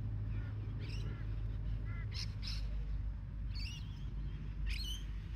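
Birds calling in the background: a string of short chirps and warbling calls, half a dozen or so, over a steady low rumble.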